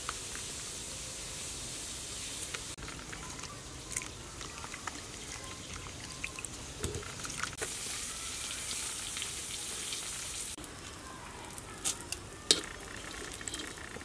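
Oil sizzling steadily in a wok as giant water bugs deep-fry, with scattered light clicks and scrapes of a utensil against the pan and one sharper knock near the end.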